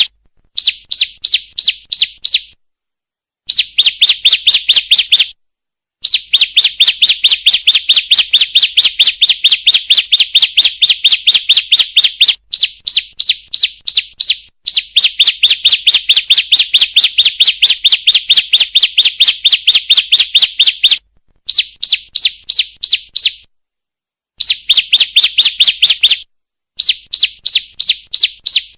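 Female bar-winged prinia (ciblek) calling, used as a lure for males: a rapid, even run of high, sharp chirps, about four or five a second, repeated in phrases of a few seconds separated by short, clean gaps.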